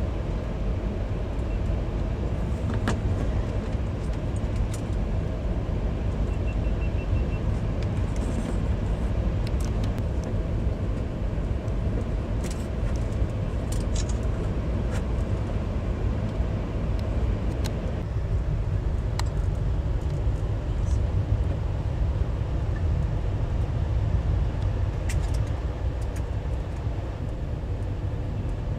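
Steady low rumble of a moving vehicle heard from inside, with a few faint clicks and rattles.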